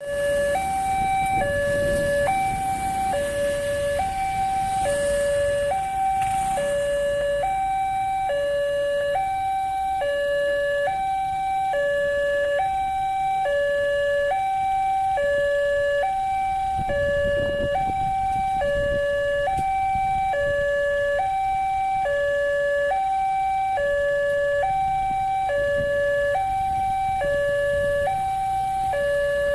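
Railway level-crossing electronic warning alarm sounding a steady two-tone signal, high and low tones alternating a little more than once a second, warning that a train is approaching and the gates are closing. Low road-traffic rumble underneath.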